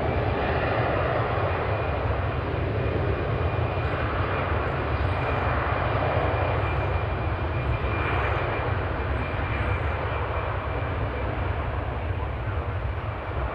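Jet aircraft engines running: a steady low rumble and rush of noise with a thin, steady high whine, swelling at the start and easing a little toward the end.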